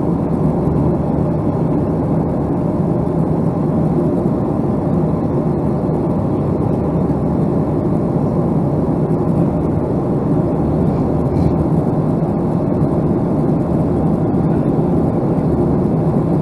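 Steady, even jet noise of a Boeing 757-200, a constant rumble with a faint hum under it.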